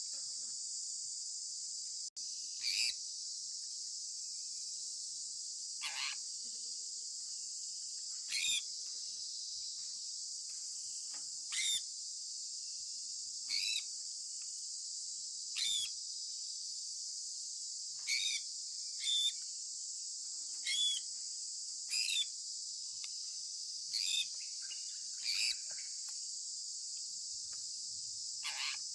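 Sun conure giving short, sharply falling chirps, about a dozen spaced a second or two apart, over a steady high-pitched hiss like a cricket chorus.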